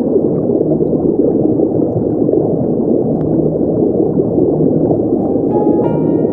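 Steady, muffled underwater ambience: a low, dense rush and gurgle of water. A few sustained music notes come in near the end.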